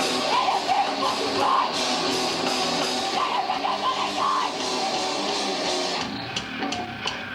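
Rock band playing heavy rock, with electric guitar and drum kit. Near the end the band thins out to a few sharp drum hits, then comes back in full.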